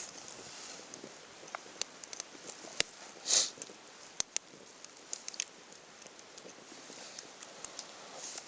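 Wood fire crackling, with sharp irregular pops over a soft hiss and one louder rushing burst about a third of the way in.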